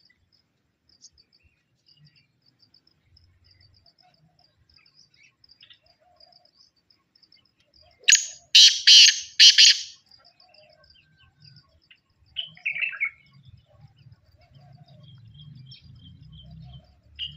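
Bird calls: a quick run of four loud, harsh calls about eight seconds in, then a shorter falling call, over faint high chirping.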